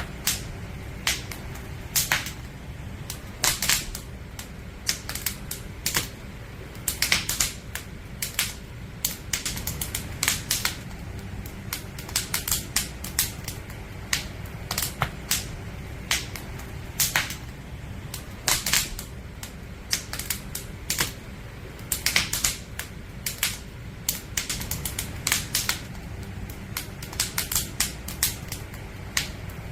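Firewood burning in a campfire, crackling and popping at uneven intervals, a few sharp pops a second over a low steady rumble.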